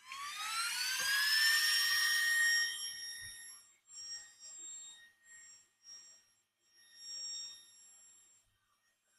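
Hot air rework station's blower motor whining: the pitch rises over about two seconds as it spins up, holds steady, then the whine fades after about three seconds and comes back in short spells.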